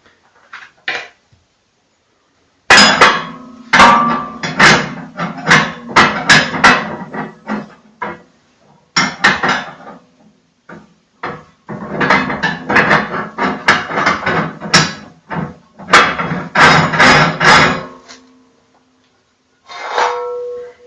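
Metal internal parts of a Kratki Koza K6 cast-iron stove clanking and knocking against the firebox as they are fitted in, in runs of rapid sharp impacts with short gaps between them.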